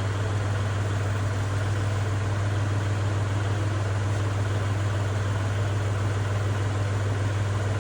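Kubota tractor engine idling steadily, an even low hum with no change in speed.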